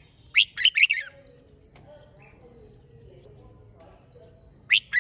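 Red-whiskered bulbul singing. A loud, quick warbled phrase comes about half a second in and another near the end, with fainter high chirps repeating in between.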